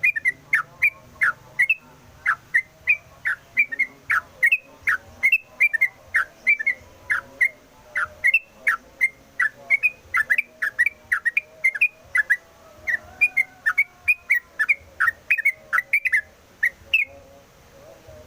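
Yellow-vented bulbul (trucukan) singing a fast, unbroken run of short whistled notes, about three a second. The song stops about a second before the end.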